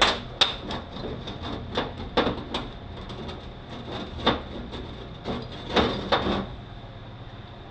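Metal parts of a Mazda six-speed manual transmission knocking and clinking as they are handled and set down, about a dozen separate clicks and knocks, some ringing briefly, the loudest right at the start.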